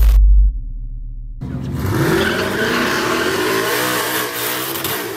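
A deep electronic intro sting with glitchy clicks ends about half a second in. Then a twin-turbo 5.0 Coyote V8 in a 2019 Mustang GT revs up, its pitch rising and then wavering up and down.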